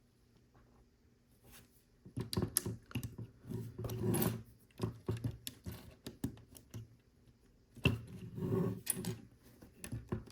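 Plastic LEGO pieces being handled and clicked together: scattered sharp clicks and clatter with bouts of rustling as loose pieces are sifted, starting about two seconds in.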